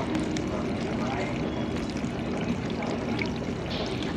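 GE dishwasher running mid-cycle: water spraying and sloshing steadily inside the tub.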